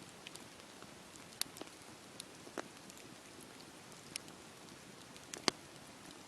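Wood fire in a fireplace burning with a soft steady hiss and scattered sharp crackles and pops, the loudest pop about five and a half seconds in.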